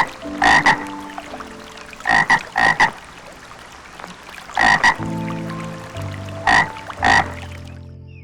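A frog croaking: loud, short croaks, mostly in quick pairs, repeated every second or two. The croaking stops about a second before the end.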